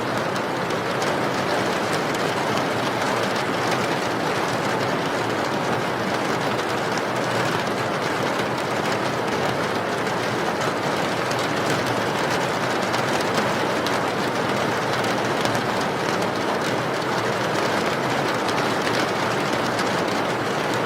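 Steady rain falling: an even, unchanging hiss with a fine patter of drops.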